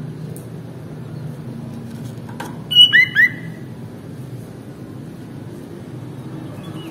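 Sooty-headed bulbul giving a quick burst of three loud whistled notes about three seconds in, over a low steady hum.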